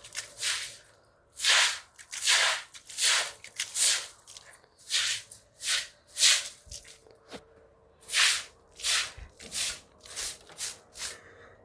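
Brisk swishing strokes of a surface being scrubbed or swept, about one or two a second at uneven spacing.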